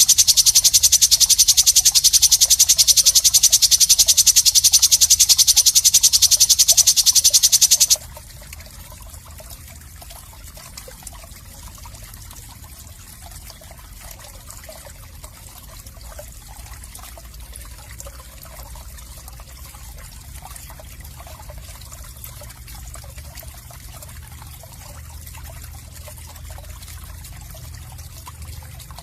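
Loud, very fast, high-pitched buzzing trill of an animal call, cutting off abruptly about eight seconds in; after that only a faint low hum and soft crackle remain.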